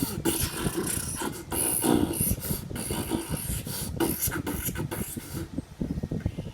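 A person beatboxing: fast percussive mouth sounds with hissy bursts. It stops about five and a half seconds in, leaving only faint low thumps.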